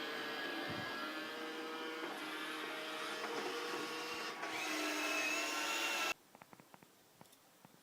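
Roomba robot vacuum running: a steady whir with whining motor tones over a hiss of brushes and suction. It cuts off suddenly about six seconds in, after which there are only faint ticks.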